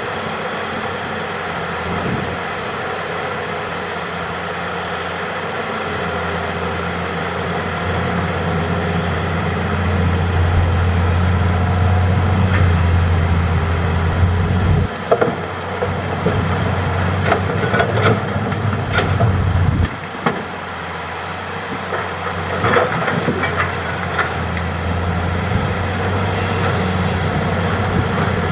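Hitachi hydraulic excavator's diesel engine running steadily, working harder and louder partway through. Several sharp knocks and clatters come around the middle and again later on.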